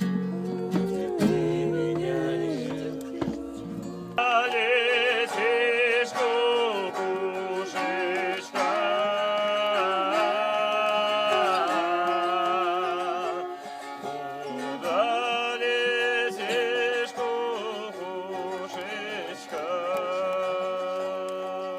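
Live acoustic music: plucked guitar-like strings, joined about four seconds in by a long, wavering melody line with strong vibrato that carries on over the strings.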